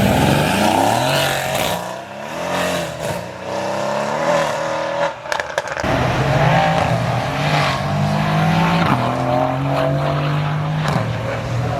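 Performance car engines accelerating hard away: the revs climb and drop with gear changes, with a few sharp cracks about halfway through, then a steadier engine note stepping up again.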